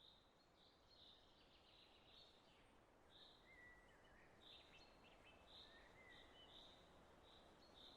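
Near silence with faint birdsong: soft high chirps repeating irregularly about twice a second, and a couple of thin whistles around the middle.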